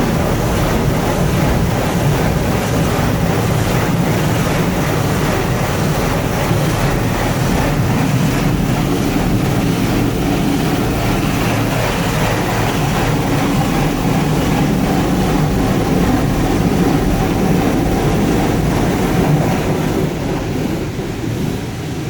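High-pressure rinse jets of a touchless automatic car wash spraying water against the van, heard from inside the cabin as a steady, loud rushing that eases slightly near the end.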